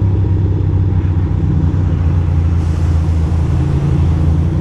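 Ducati Monster 620's air-cooled L-twin engine running at a low, steady speed while the bike rolls slowly in traffic. A faint hiss joins in about two and a half seconds in.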